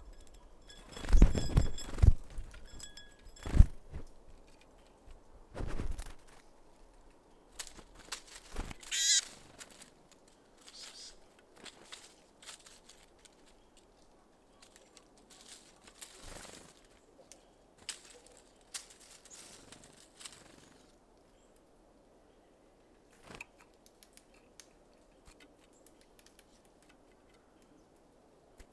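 Small birds at a seed feeder: wing flutters and thumps as they land and take off, loudest in the first six seconds. A short bird call comes about nine seconds in, followed by scattered light taps and rustles.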